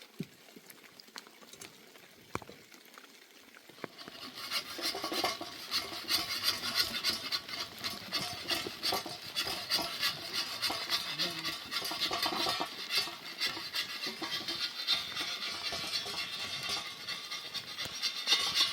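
A spoon stirring and scraping in a metal cooking pot, a continuous run of clinks and scrapes that starts about four seconds in.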